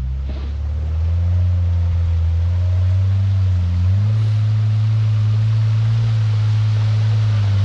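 Off-road vehicle engine running steadily under low-speed crawling load. About four seconds in, its revs step up and then hold at the higher speed.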